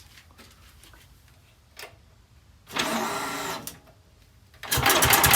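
Electric starter cranking a 6 hp Tecumseh single-cylinder engine: a short burst of cranking about halfway, then steady cranking near the end with an even chugging pulse several times a second as the engine turns over without firing.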